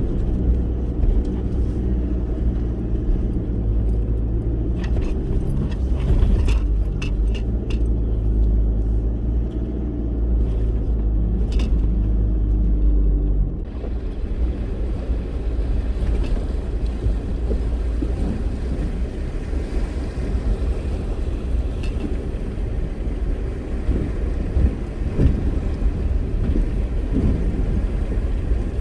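4x4 vehicle driving on a rough track: a steady low engine drone with scattered rattles and knocks. About halfway through, the sound changes abruptly to a rougher, uneven rumble.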